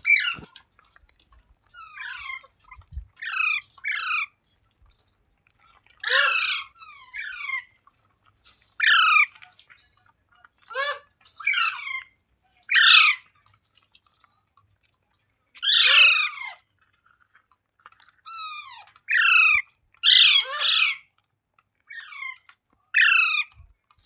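Ringneck parrot giving loud, harsh squawks over and over, each call a short downward sweep in pitch, singly or in quick pairs every second or two.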